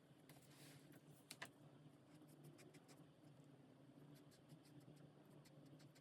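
Faint scratching of an alcohol marker tip across coloring-book paper, with a sharp click about a second and a half in and scattered light ticks after it, over a low steady hum.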